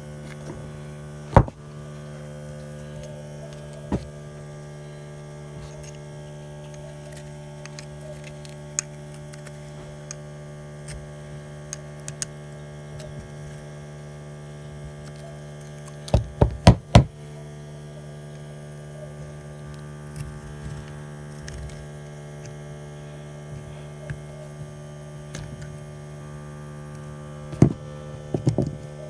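Steady electrical hum, with occasional sharp knocks and taps from a sink drain part being handled and cleaned: single knocks early on, a quick run of four or five about halfway, and a few more near the end.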